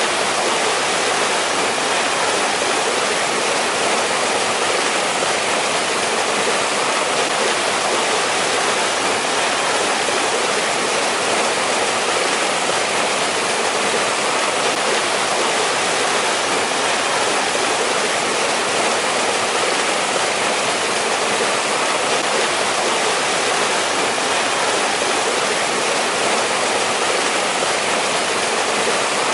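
Mountain valley stream in winter, water rushing and splashing over rocks in a steady, even rush with no breaks.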